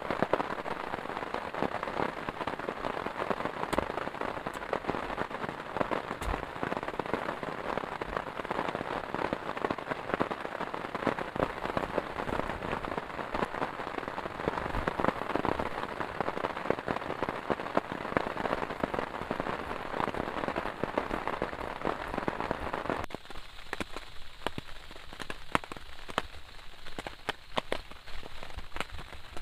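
Heavy rain pouring, a dense steady rush with many individual drops ticking. About three-quarters of the way through, the rush drops away suddenly, leaving scattered sharp drips.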